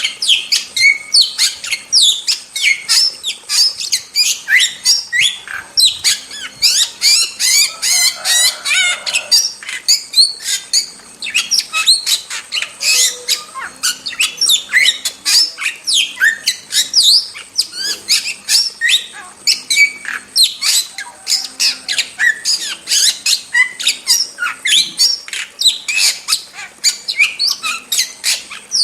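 Starlings (jalak) calling in a rapid, unbroken stream of harsh squawks and chirps, several calls a second.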